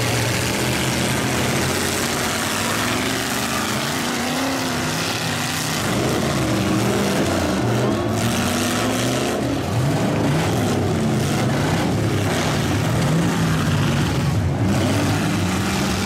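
Several demolition-derby trucks' engines revving at once, their pitch rising and falling over and over as they accelerate and back off.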